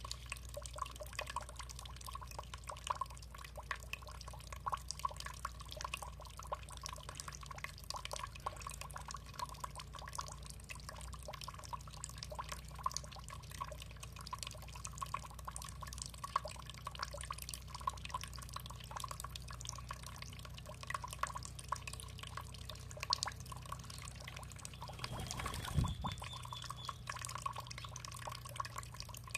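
Water dripping and trickling steadily, a dense patter of small drips over a low steady rumble. One louder thump near the end.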